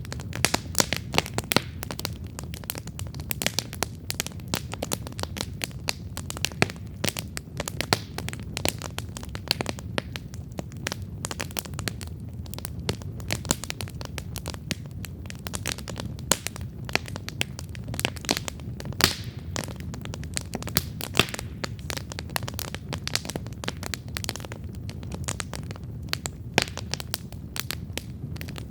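Wood campfire burning, with dense irregular crackles and sharp pops over the low, steady rush of the flames.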